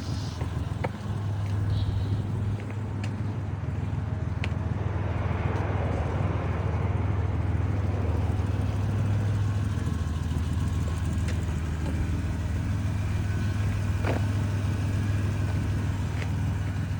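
2004 Toyota Tacoma's 3.4-litre V6 engine running steadily at an even speed, smooth, with a few faint clicks.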